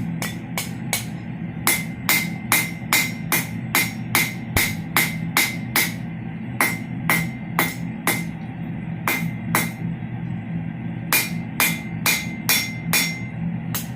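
Hand hammer striking flat steel on an anvil, repeated ringing blows about two to three a second in runs with short pauses between them, over a steady low hum.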